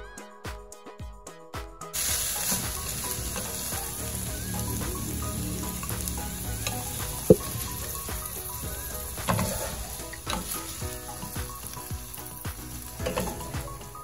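Chicken pieces and onion sizzling in oil in a nonstick frying pan, stirred and scraped with a slotted spatula, with one sharp knock about seven seconds in and a few lighter clicks after. Music with a steady beat plays for the first two seconds, before the sizzle comes in.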